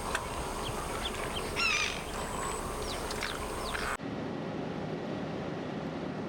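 Birds calling over steady outdoor background noise: one loud, wavering, honking call about one and a half seconds in, and several short downward calls around three seconds. After about four seconds the calls stop and only a steady noise remains.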